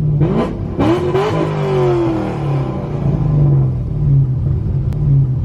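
A vehicle's engine revving: its pitch climbs sharply at the start and again about a second in, then falls away and settles into steady running.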